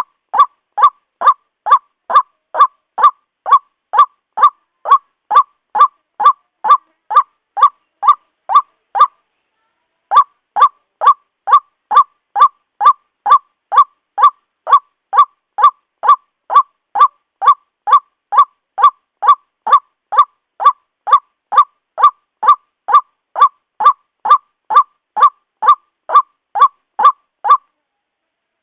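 White-breasted waterhen lure call: a fast, even series of repeated honking kwak notes, about two a second. The series breaks off for about a second a third of the way in, and again near the end.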